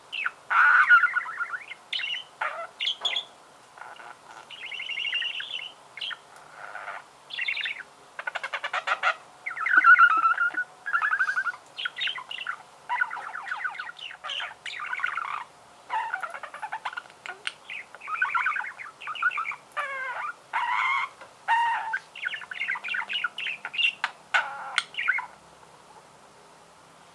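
Budgerigar warbling: a long run of rapid chirps, trills and chattering notes that stops about 25 seconds in.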